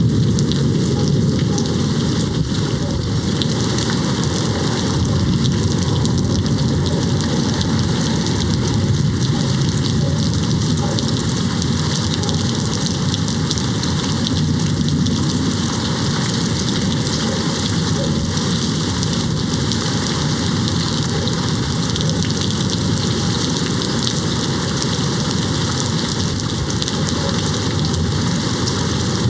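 Steady heavy rain: a dense, even hiss of drops with a continuous low rumble underneath, with no single thunderclap standing out.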